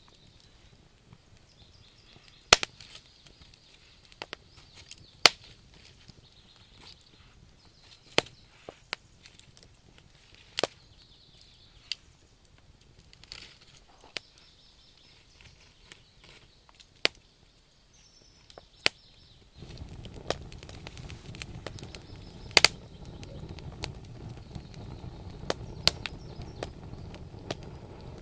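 Wood campfire crackling, with sharp, irregular pops and snaps from the burning logs. About two-thirds of the way through, a low, steady rushing noise comes in abruptly under the crackle.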